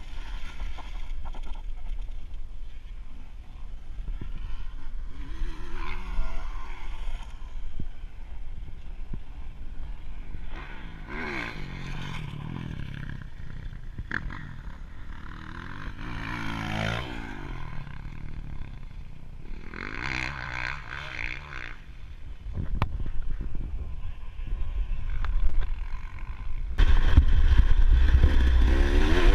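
Dirt bike engines revving and passing several times, their pitch rising and falling with each pass, with a much louder, closer engine sound near the end.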